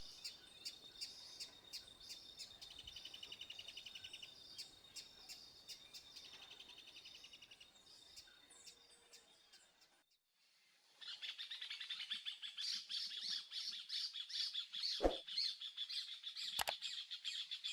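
Wild birds singing and calling, with high chirps and quick trills. The sound cuts out for about a second around ten seconds in, then returns as a louder, dense chorus of high chirping with a few sharp knocks.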